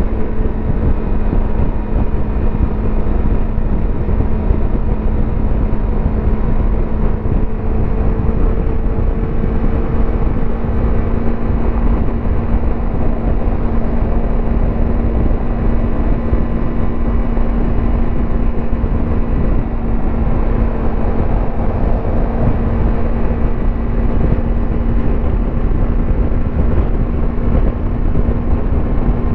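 Yamaha YZF-R25's 250 cc parallel-twin engine and exhaust at a steady expressway cruise, the engine note holding nearly constant pitch, over heavy low wind and road rumble.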